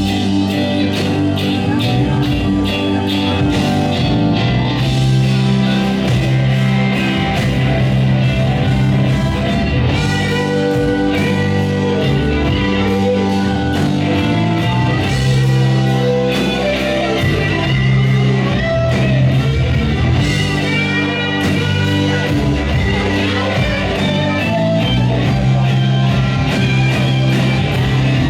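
Live blues-rock band playing an instrumental stretch, with guitar to the fore over bass and drums.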